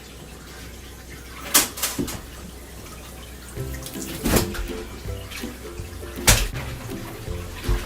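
Water splashing in a bathtub as laundry is washed in it: about five sharp splashes a second or two apart. Background music comes in about halfway through.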